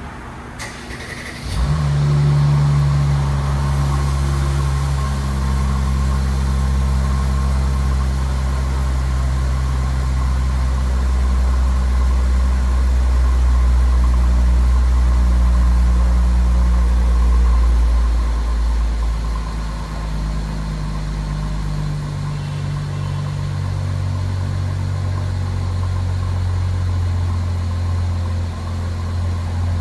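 Mercedes-Benz E400 engine cold-started: a brief crank about a second and a half in, then it catches and runs at a raised cold-start idle. About twenty seconds in the idle drops and quietens, the fast idle settling.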